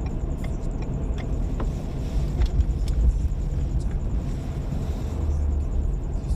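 Steady low rumble of a four-wheel-drive vehicle driving on the freeway, its road and engine noise heard from inside the cabin, with a few faint, irregular clicks.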